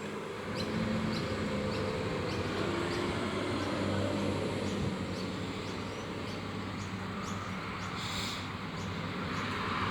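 Steady low rumble of a vehicle engine running, swelling a little in the first few seconds, with faint high ticks repeating about twice a second and a brief hiss near the end.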